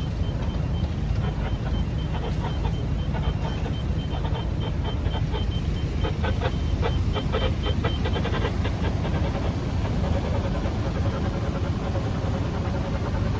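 Fast, high electronic beeping from the yacht's depth-sounder alarm, a warning that the water under the keel is getting shallow, over the steady low running of the boat's engine. The beeping stops about eight seconds in.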